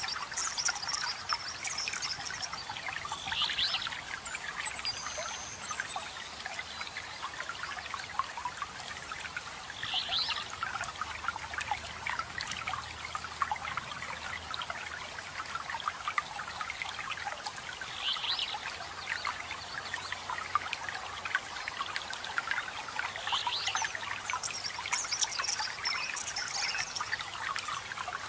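Small waterfall trickling and splashing steadily, with short high bird chirps every few seconds.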